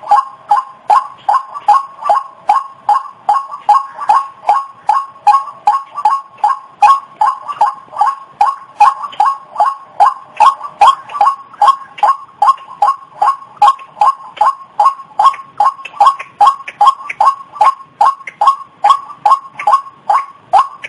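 White-breasted waterhen (ruak-ruak) lure call: a steady, evenly repeated string of short pitched notes, about two or three a second, without a break.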